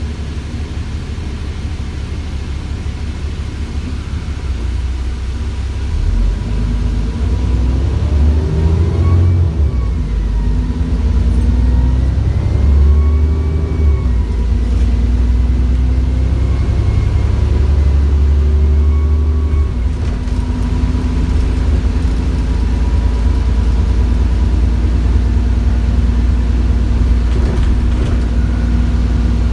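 Cummins ISBe 6.7-litre diesel engine of an ADL Enviro400 bus running with a deep rumble that grows louder about six seconds in as it pulls away. Turbo whine rises and falls several times in the middle, then holds as a steady whine near the end.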